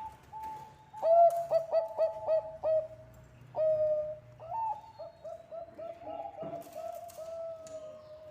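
Bangkok zebra doves (perkutut) cooing in quick staccato runs of short notes. A higher-pitched series at the start gives way about a second in to a louder, lower run, with one longer held coo midway.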